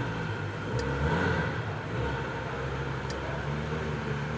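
Steady low hum of the Porsche Panamera Turbo's running engine, heard inside the cabin, with two faint clicks.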